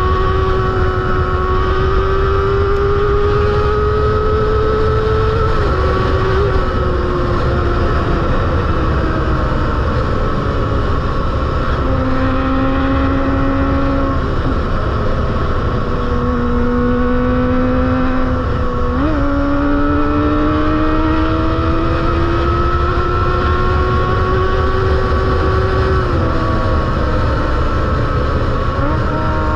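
Kawasaki ZX-25R's 250 cc inline-four running loud and high-revving through a Proliner aftermarket exhaust. The pitch climbs slowly, drops suddenly several times (around 6, 14 and 26 seconds in, as at upshifts) and jumps up sharply once about 19 seconds in, over a steady low rumble.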